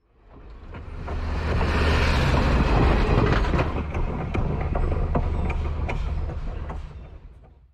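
A train rolling past close by: a heavy rumble of railcars with irregular clicks and clanks of the wheels on the rails. It swells up over the first second or so and dies away near the end.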